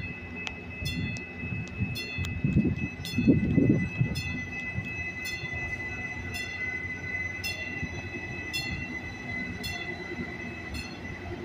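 Metrolink Arrow Stadler FLIRT diesel multiple unit rolling slowly into the station, with a low rumble that is loudest about three seconds in. Over it, a bell dings about once every three-quarters of a second, and a steady high tone runs underneath.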